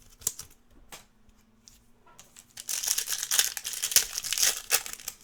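A foil trading-card pack wrapper being crinkled and torn open. A few light clicks come first, then a dense burst of high crinkling noise for the last couple of seconds.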